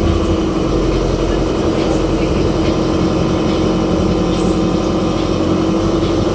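Pasig River ferry boat's engine running steadily underway: a loud, even drone with a constant hum and low rumble.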